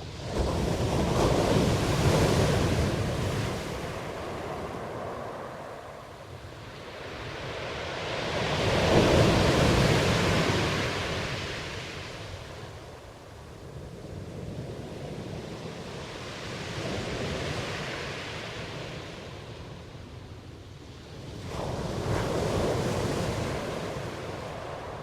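Ocean waves surging and washing in, each surge swelling and fading over several seconds. There are about four in all, and the one around the middle is the loudest.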